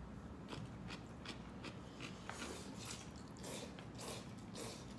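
A person eating close to the microphone: a run of short, crisp biting and chewing clicks, with a few louder noisy bursts in the second half.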